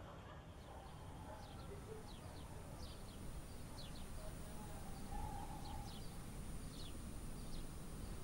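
Small birds chirping: short, high, downward-sliding chirps, often in quick pairs or small groups, repeated from about two seconds in. Underneath runs a low steady rumble.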